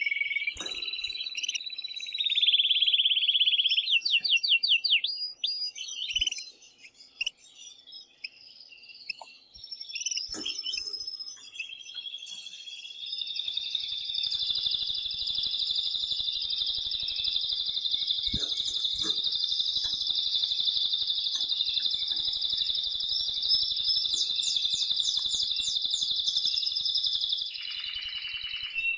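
Male domestic canary singing the vigorous song of an excited male in breeding condition. Quick trills and rattles for the first several seconds, a short lull, then one long unbroken trilled phrase lasting about fifteen seconds.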